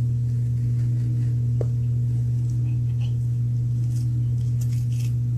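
A loud, steady low hum that holds one pitch, with a few faint ticks over it.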